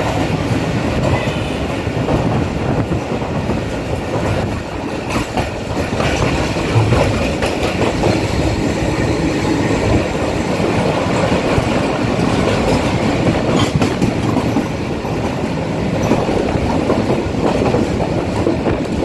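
Passenger train coach running along the track, heard from its open doorway: a steady rumble and rattle of wheels on rails, with scattered clicks as the wheels pass over rail joints.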